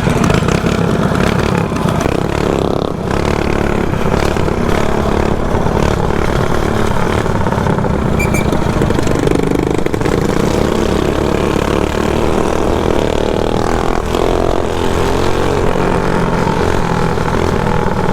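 Mini bike engines running steadily under way, the engine note rising and falling slightly with the throttle.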